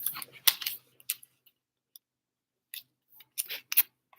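Trading cards and plastic card sleeves being handled on a table: a few clusters of short clicks and rustles, the busiest at the start and another near the end.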